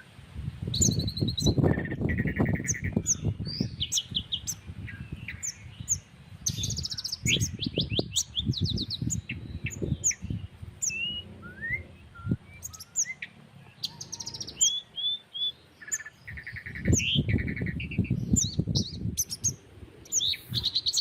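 Several small birds chirping and trilling over one another in quick, overlapping calls. Irregular low gusts of wind buffet the microphone, loudest near the start and again near the end.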